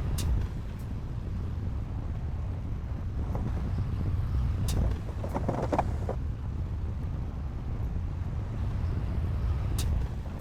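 Diesel engine of heavy earthmoving machinery running steadily with a low rumble, with a few sharp knocks.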